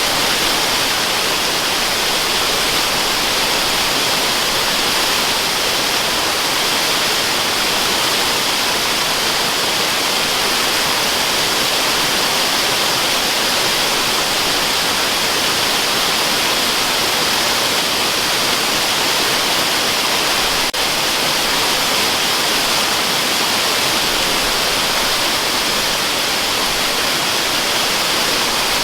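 Waterfall noise used as white noise: a dense, even hiss of falling water, brightest in the upper range with little low rumble. It holds steady throughout, broken only by a faint click about two-thirds of the way through.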